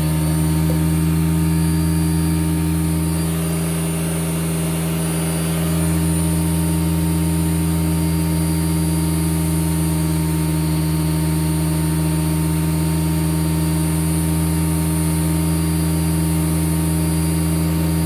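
Hoover Celebrity Quiet Series canister vacuum running steadily on low speed with its power nozzle brush roll spinning, a steady motor hum with strong low tones, rising slightly in level about six seconds in.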